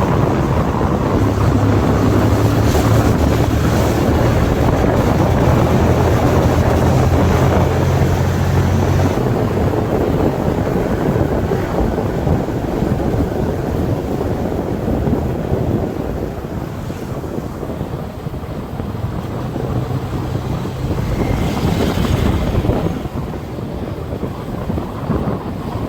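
TVS Apache RTR single-cylinder motorcycle riding at highway speed: heavy wind rush on the microphone over the steady drone of the engine. It eases off somewhat about two-thirds of the way through.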